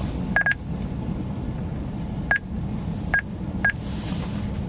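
Steady low rumble of a vehicle driving, heard inside its cab, with four short electronic clicks or beeps scattered through it.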